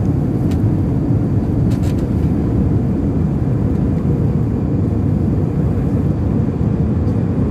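Steady low rumble of airliner cabin noise in flight, with a few faint clicks about half a second and two seconds in.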